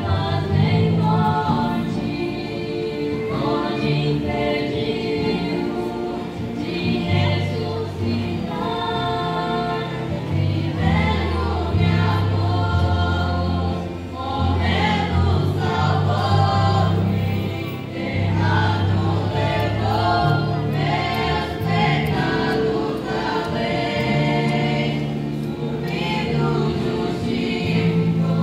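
Congregation or choir singing a Christian worship song, with a steady accompaniment of sustained bass notes.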